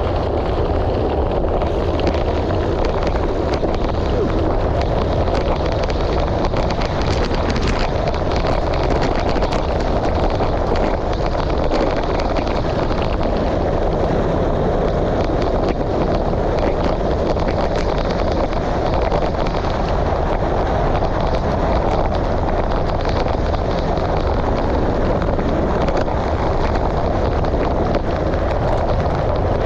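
Steady wind rushing over the microphone, with the rumble of tyres rolling over a gravel road.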